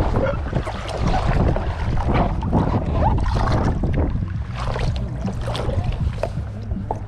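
Water splashing around a kayak, under a steady rumble of wind on the microphone.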